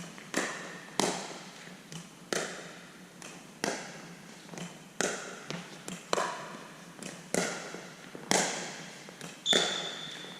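Pickleball rally: paddles striking the plastic ball back and forth, sharp hollow pocks about once a second, each ringing briefly under the pavilion roof. A short high squeak comes near the end.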